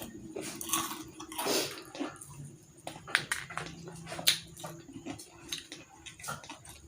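Close-up crunching and chewing of crispy fried chicken skin: irregular crisp crackles and bites, a few sharper crunches among them.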